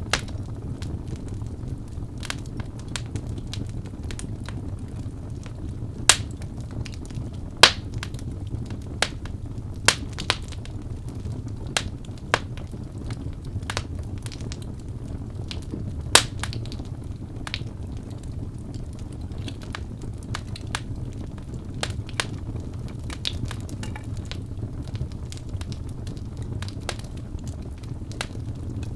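Crackling fire: a steady low rumble with irregular sharp pops and snaps, a few of them louder than the rest.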